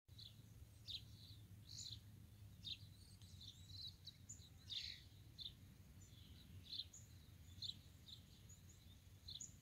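Faint outdoor ambience of small birds chirping: short, high chirps every second or so over a low, steady rumble.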